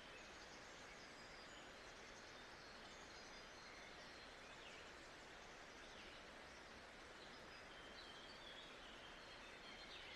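Faint nature-sound ambience: a steady, even hiss with small birds chirping, short high calls scattered throughout.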